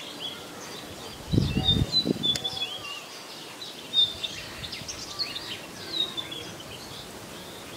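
Small birds chirping over and over in the background, with a short cluster of low thuds about one and a half seconds in and a single sharp click just after.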